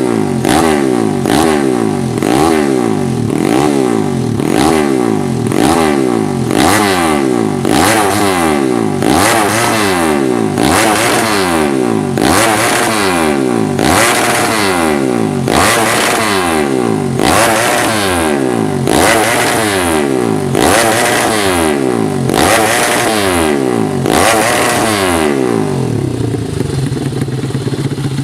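Fuel-injected motorcycle engine revved in quick repeated throttle blips, its pitch rising and falling about once a second. It drops back to a steady idle near the end.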